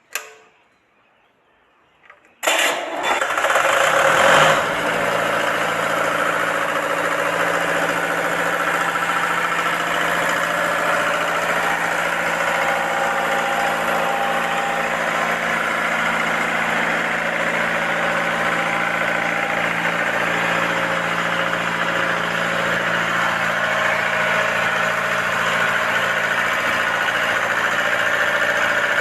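A vehicle engine starts about two and a half seconds in, runs a little faster for a couple of seconds, then settles into a steady idle.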